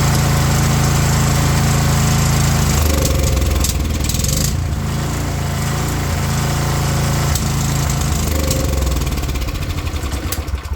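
Small single-cylinder petrol engine of a water blaster running steadily, then about three seconds in dropping to a lower, uneven, stumbling run and dying near the end. It falters as the carburettor mixture screw is turned in, which the owner finds very finicky to set.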